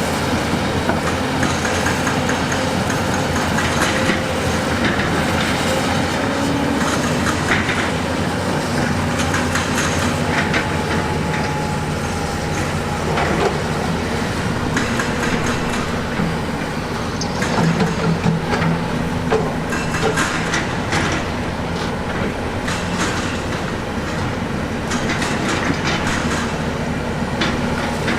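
Heavy construction machinery running steadily under load, with frequent clanking and knocking of steel and rock.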